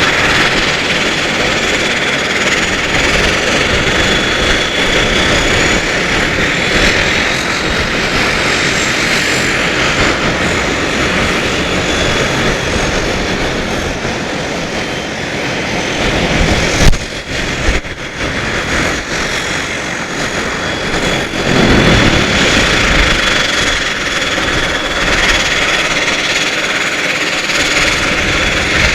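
Embraer EMB 120 Brasilia's twin turboprop engines running steadily, a continuous propeller roar with a thin high whine on top. A couple of sharp knocks about halfway through.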